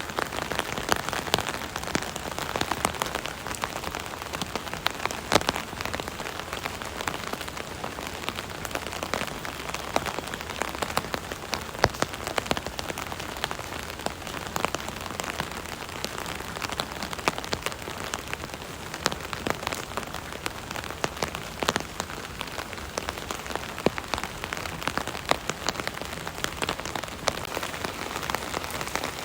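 Rain falling steadily on an umbrella: a continuous patter with many sharp individual drop hits scattered irregularly through it.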